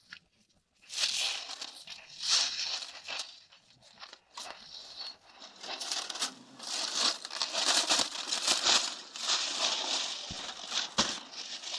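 Aluminium foil crinkling and tearing as it is pulled off a tandoor-roasted pork knuckle, in irregular rustling spells with a few sharp clicks near the end.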